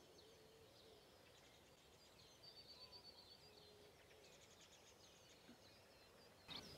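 Near silence with faint birdsong: scattered short, high chirps, a quick run of them about two and a half seconds in.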